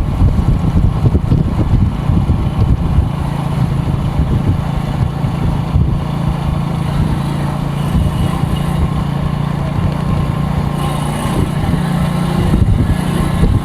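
An engine running steadily at idle, a low continuous hum with a rumble under it.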